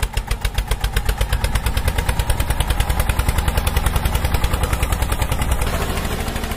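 Engine running with a fast, even chugging of about ten beats a second, picking up pace over the first few seconds, as the miniature tractor drives the toy chaff cutter by its belt.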